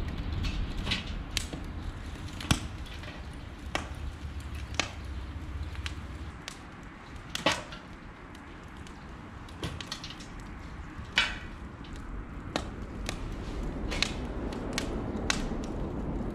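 Irregular sharp clicks and knocks, a few of them louder cracks, over a low steady rumble.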